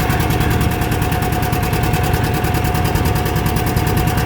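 1957 John Deere 820's two-cylinder diesel pulling hard under load, its exhaust a fast, even popping beat. A steady high whine runs under it.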